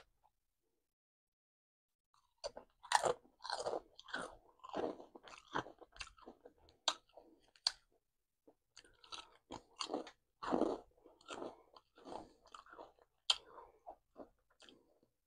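A person biting and chewing crunchy potato chips: a run of irregular crunches that starts about two and a half seconds in.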